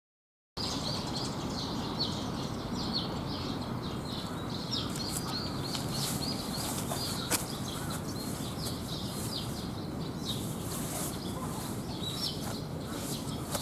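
Small birds chirping over and over in short quick calls, over a steady background hiss, starting abruptly about half a second in.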